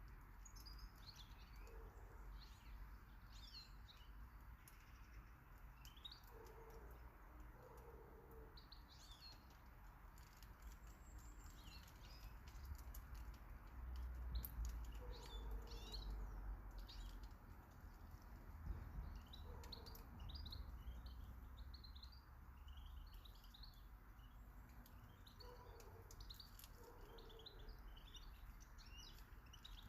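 Small garden birds chirping and calling, short high chirps repeated all through, with an occasional lower call. A low rumble swells in the middle and fades again.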